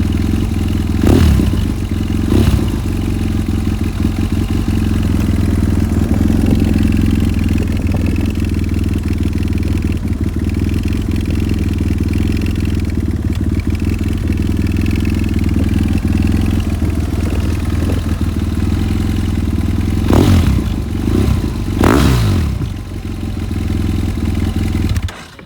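BMW F800ST's parallel-twin engine idling through a new Delkevic slip-on exhaust, with two quick throttle blips in the first few seconds and two more about 20 seconds in. The engine is switched off and cuts out suddenly near the end.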